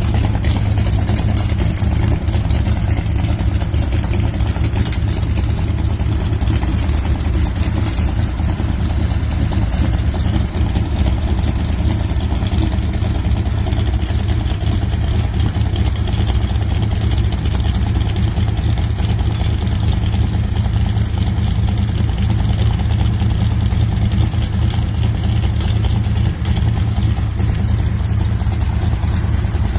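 Dodge 318 V8 engine idling steadily, a deep, even running sound with no revving.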